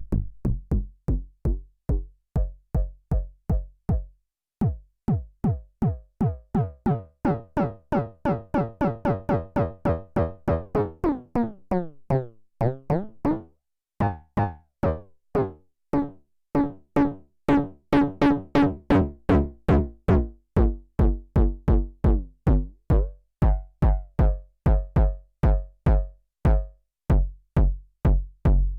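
Elektron Syntakt's AR BD FM analog FM bass drum machine, with no effects, playing a repeating pattern of short kick hits, about three to four a second and faster in places. The pitch and FM tone of the hits shift over the pattern, with two brief breaks.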